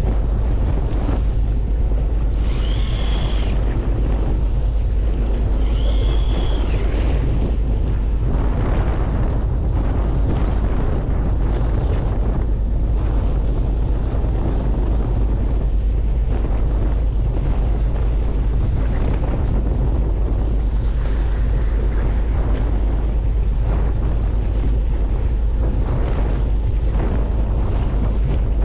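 A fishing boat's engine running with a steady low rumble, wind buffeting the microphone and water noise around the hull. A short high-pitched sound comes twice, about three and six seconds in.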